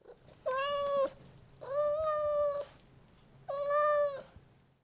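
Domestic cat meowing three times: three drawn-out, fairly level-pitched meows about a second apart.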